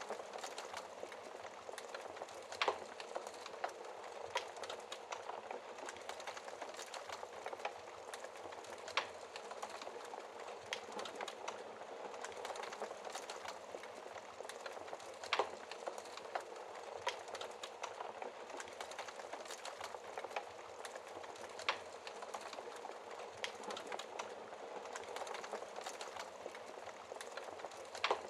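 Wood fire crackling in a fireplace: a steady hiss of burning, dotted with small snaps and a few louder, sharp pops every several seconds.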